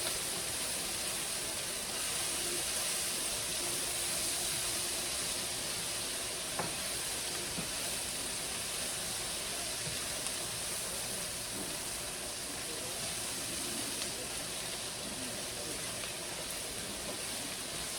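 Hot oil sizzling in a pan on the stove, a steady frying hiss, with one light click about six and a half seconds in.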